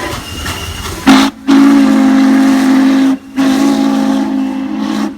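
Train whistle sounding three blasts, a short one then two long ones, each a loud low chord, after about a second of hissing.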